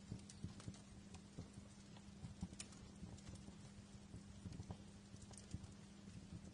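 Wood fire crackling in a fireplace: faint, irregular small pops and snaps, with a few sharper cracks, over a steady low hum.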